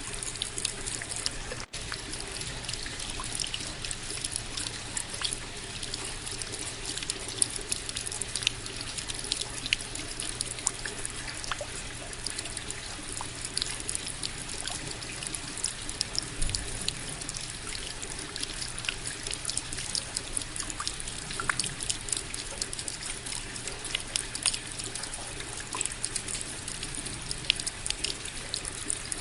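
Steady rainfall, with many separate drops ticking close by over an even hiss.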